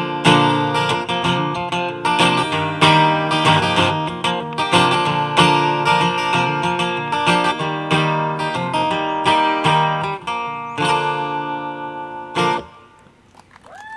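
Acoustic guitar playing the closing instrumental of a country song, picked notes and strums, stopping with a last strum about twelve and a half seconds in.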